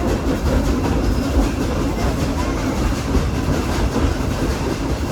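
Steam-hauled passenger train rolling along the track, heard from on board: a steady rumble of steel wheels on the rails.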